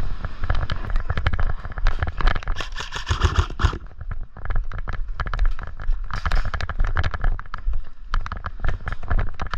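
Airsoft gunfire: many sharp pops and clicks in quick, irregular runs, densest a few seconds in, over a low rumble of movement and handling noise on a body-worn microphone.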